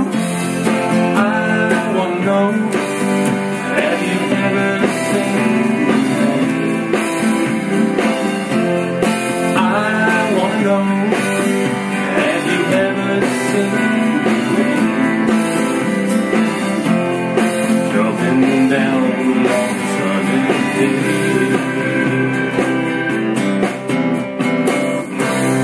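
Instrumental break of a rock song, with guitar playing a lead line with bent notes over the band's accompaniment.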